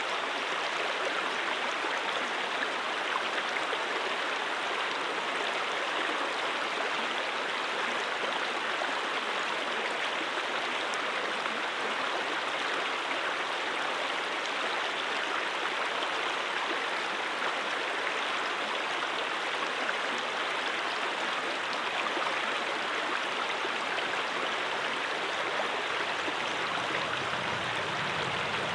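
Stream water flowing and splashing over rocks, a steady continuous rush.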